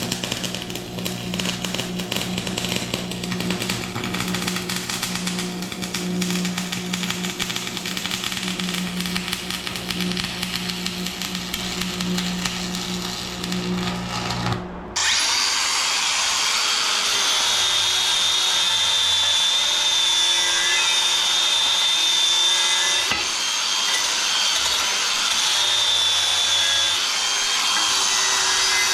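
Arc welding: a dense, steady crackle over an electrical hum. About halfway through, it cuts off abruptly and gives way to a steady power-tool sound with a high-pitched whine.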